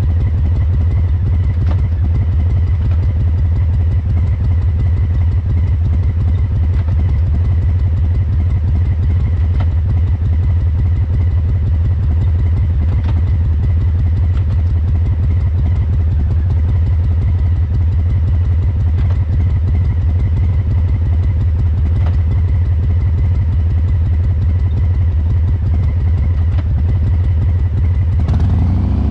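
Harley-Davidson Breakout 114's Milwaukee-Eight V-twin running steadily through Cobra Neighbor Hater slip-on mufflers, a deep, even exhaust rumble with no revving. Its fuel injection is tuned for the loping three-beat cadence.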